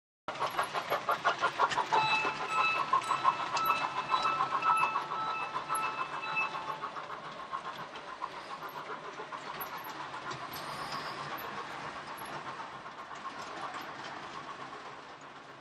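LGB G-scale model train running on the layout's track, a rhythmic clatter that is loudest for the first few seconds and then fades away. A steady whistle-like tone sounds over it from about 2 to 6.5 seconds in.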